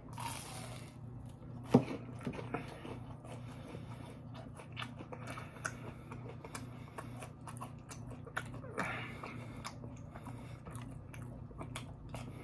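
A person chewing and biting food close to the microphone: many small mouth clicks and soft crunches, with one sharper click about two seconds in. A steady low hum runs underneath.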